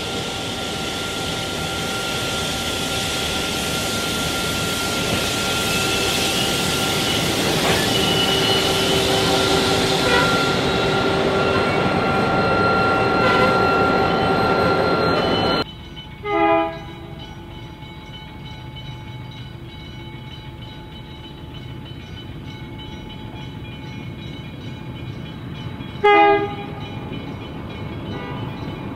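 EMD diesel-electric locomotive 8177, an NSW 81 class, passes with loaded concrete-sleeper wagons, and the engine and wheel noise builds steadily as the wagons roll by. Then, against quieter rumble, an XPT passenger train sounds its horn twice in short blasts about ten seconds apart.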